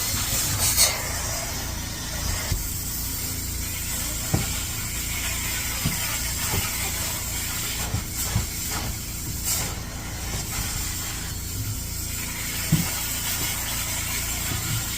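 Upholstery-cleaning extraction machine running steadily, with a hiss over a low hum and a few scattered knocks.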